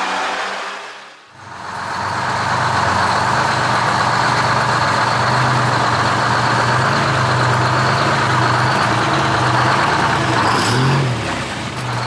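Two-stroke Detroit Diesel engine of a GMC Crackerbox cabover semi truck running hard under load: a loud, steady diesel drone that comes in about a second and a half in as music fades out. Its pitch wavers briefly near the end.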